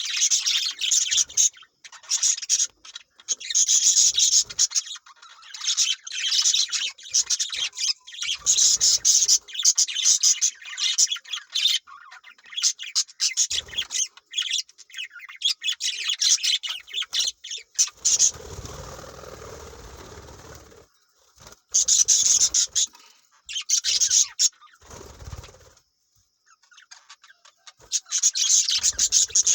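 Parrots chirping and chattering in repeated high-pitched bursts with short pauses. About two-thirds of the way in, a stretch of rustling and shuffling noise.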